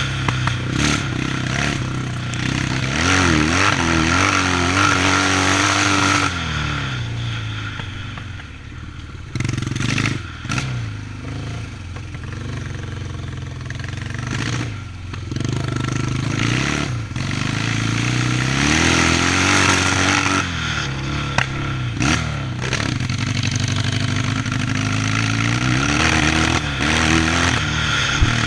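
Yamaha 650 motocross bike's engine being ridden hard, its pitch repeatedly rising under throttle and falling as it eases off, with a quieter off-throttle stretch about eight seconds in.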